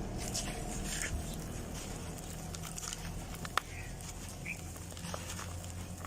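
Lumps of dry red dirt crumbling and crunching in small, scattered crackles, with one sharper snap about three and a half seconds in, over a steady low hum.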